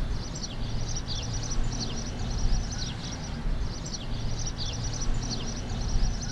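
Small birds chirping, many short falling chirps a few times a second, over a low steady rumble.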